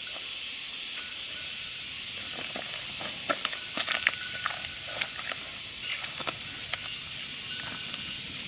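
Steady high-pitched drone of insects, with scattered light clicks and knocks that come thickest about three to five seconds in.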